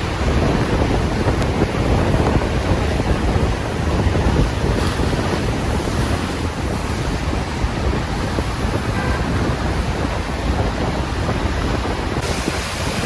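Heavy rain and wind, with wind buffeting the microphone: a loud, steady rushing, heaviest in the low end.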